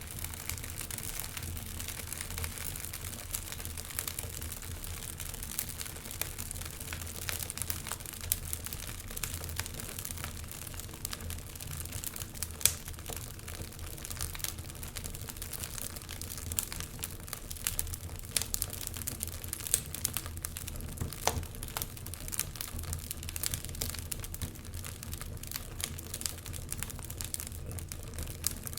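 Wood fire burning in a fireplace: a low rumble of flames with steady irregular crackling and sharp pops from the burning logs.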